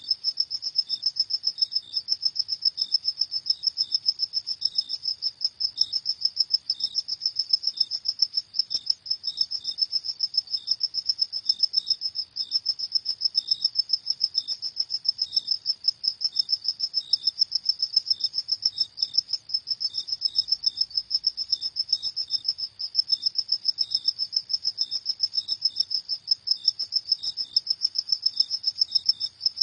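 Crickets chirping in a fast, high-pitched, evenly pulsing trill that goes on without a break.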